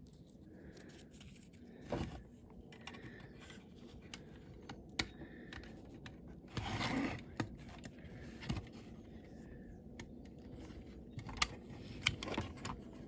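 Small clicks, taps and scrapes of a diecast model car and its parts being handled and pushed into place on a base, with a longer scrape about seven seconds in and a cluster of sharp clicks near the end.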